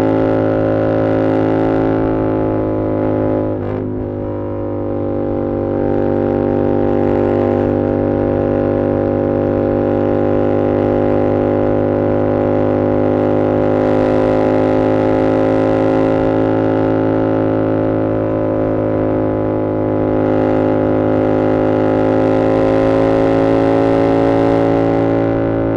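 2022 Yamaha R7's 689 cc parallel-twin engine through an SC-Project CR-T exhaust, running at steady revs with an even drone. About four seconds in the revs and level drop briefly, then pick back up.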